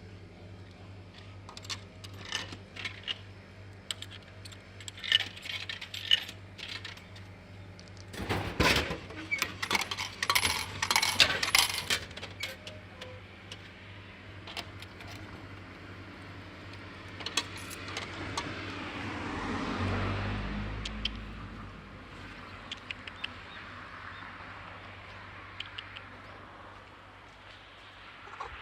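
Coins clinking and clattering at a drink vending machine: scattered clicks, then a dense run of metallic clatter about eight to twelve seconds in. Later a low rumble swells and fades around twenty seconds in, over a steady low hum.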